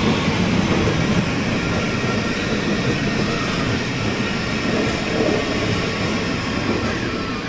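A passenger train running through the station at a platform: steady running noise of wheels on rails and the train's drive, loud and close, easing off slightly near the end.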